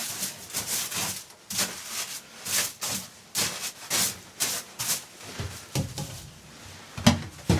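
Repeated scraping or rubbing strokes, about two a second, fairly even in rhythm.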